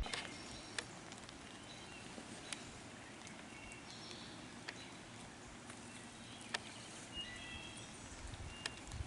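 Quiet woodland ambience with a few faint, short bird chirps and scattered sharp ticks.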